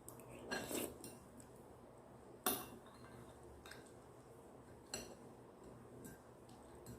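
Eating utensils clinking and scraping against a bowl of ramen: a few sharp clicks, the loudest about two and a half seconds in and another about five seconds in, after a short scrape just under a second in.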